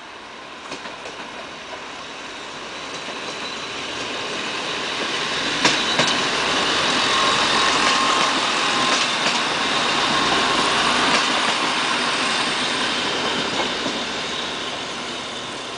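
Regional train of railcars passing close by on the track: a rushing noise swells to its loudest about six seconds in, with sharp clacks as the wheels cross rail joints, then fades as it moves away.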